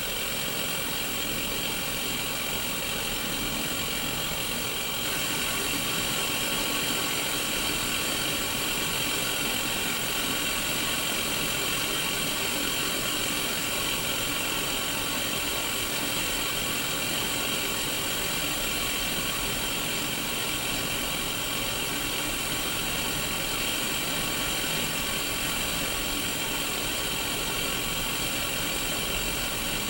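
Static from an untuned Sony Mega Watchman black-and-white CRT TV: a steady hiss with a faint buzz of steady tones through it, getting slightly louder about five seconds in.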